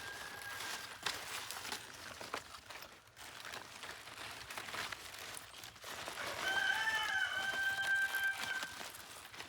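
A rooster crows once, a long held call about six seconds in, with the tail of a fainter crow at the very start. Light rustling and clicks sound in between.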